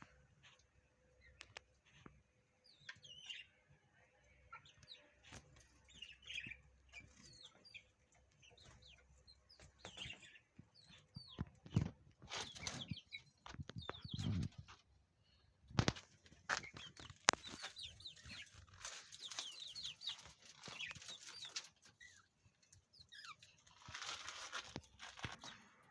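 A mixed group of kept birds chirping and calling in short, high notes throughout, with scattered sharp clicks and several brief rustling bursts, the loudest near the middle and near the end.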